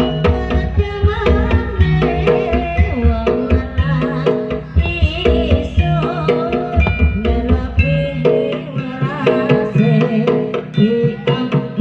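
Jaranan music played by a Javanese gamelan-style ensemble: hand drums beating a driving rhythm under ringing metallophone tones, with a wavering melody line above. The deep drum pulse drops out for a few seconds around the middle and again near the end.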